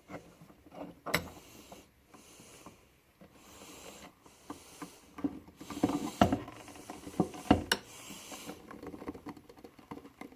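Small metal pen parts handled and pressed together by hand: scattered light clicks and rubbing, with a few sharper clicks about a second in and again around six and seven and a half seconds.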